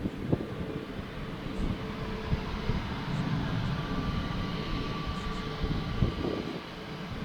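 Jet aircraft engines running at the airport, with a faint steady whine in the middle, under gusts of wind buffeting the microphone.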